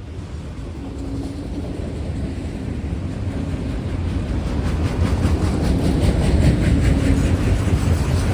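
Diesel freight train approaching and steadily growing louder, its locomotive engine making a low drone. Regular wheel ticks over the rails come in about five seconds in.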